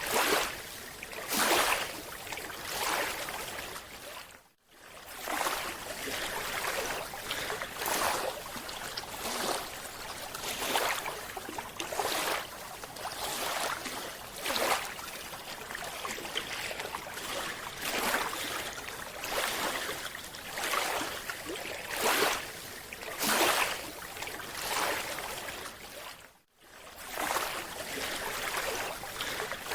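Rushing water noise of underwater footage, swelling and easing about once a second, dropping out briefly twice, about four seconds in and near the end.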